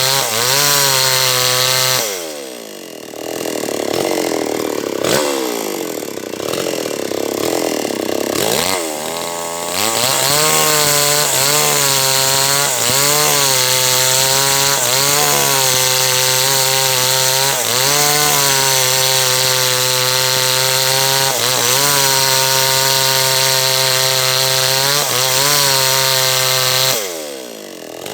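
Small H&L Pro 5800 two-stroke chainsaw cutting teak. The engine drops off high revs about two seconds in and runs slower for several seconds. It then revs high again, its speed dipping and recovering over and over as the bar works through the wood, and falls off briefly once more near the end.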